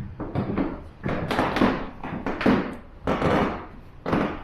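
Footsteps on old wooden floorboards: a series of uneven, hollow thuds about every half second to a second.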